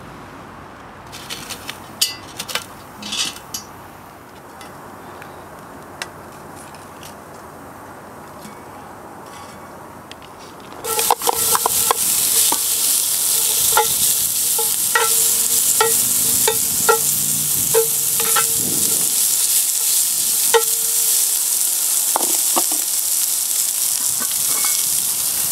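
Chopped onion and pork belly bits dropped into a preheated cast iron Dutch oven start sizzling loudly about eleven seconds in. A wooden spoon stirs them and knocks against the pot. Before that there are only a few light clicks and knocks.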